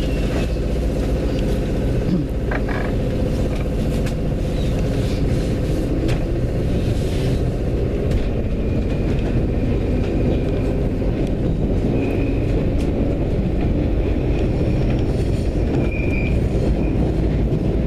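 London Underground train running steadily, its wheels and carriage rumbling and rattling on the track, with a faint high wheel squeal now and then.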